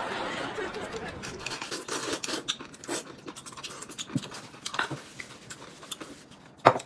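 Mouth noises of eating: wet chewing, lip smacks and small clicks, with one sharp knock near the end.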